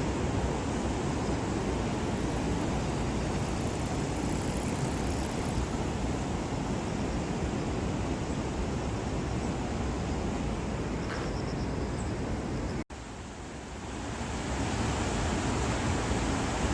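Heavy rain falling, a steady rushing hiss. About 13 seconds in it cuts out for an instant, comes back quieter and builds up again.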